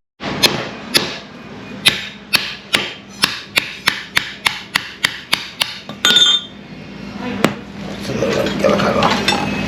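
Hammer blows on a seized shock-absorber bolt of a motorcycle's front suspension: about fourteen sharp strikes at two or three a second, then a ringing metal clang and one more blow. The bolt is stuck and will not come out for hammering.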